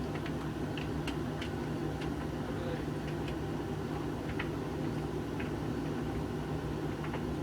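Hoover VHV680C tumble dryer running with a steady hum, with scattered light clicks of the load of clothes tumbling in the drum.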